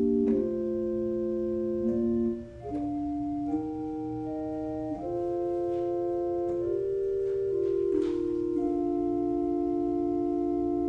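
Organ playing slow sustained chords that move every second or two, settling on a long held chord near the end.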